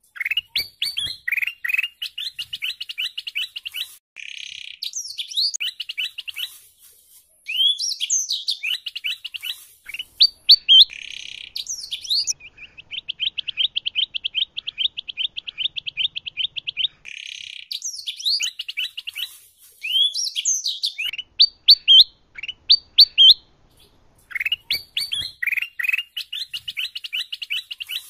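Kutilang emas bulbul and canary singing together: bursts of whistled notes and sweeping chirps, broken by short pauses, with a long, fast, even trill near the middle.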